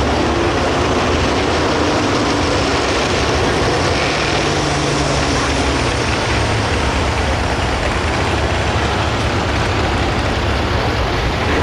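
Turbocharged diesel farm tractor engine running loud and steady at high throttle, the kind of sound made while pulling the sled in a turbo stock tractor pull.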